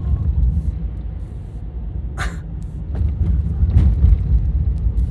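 Car driving on an unplowed, snow-covered road: a steady low rumble of tyres and engine, with a couple of short sharp jolts or crunches about two and four seconds in.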